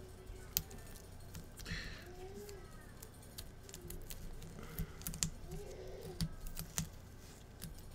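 Scattered light clicks and ticks of small hand tools on an opened iPad's internals as tape and antenna cables are moved, with a few sharper ticks between about half a second and seven seconds in.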